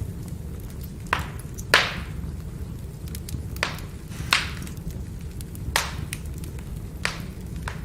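Burning firewood crackling, with about six sharp pops and many smaller ticks over a steady low rumble of the flames.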